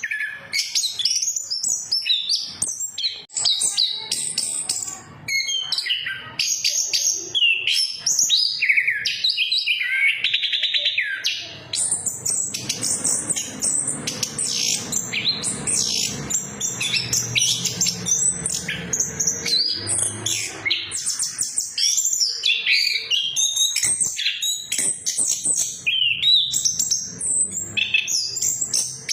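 Orange-headed thrush singing a fast, continuous, varied song of rapid chirps, whistles and trills, played as a lure song to prompt silent captive thrushes to sing. A low rumble sits underneath for about ten seconds in the middle.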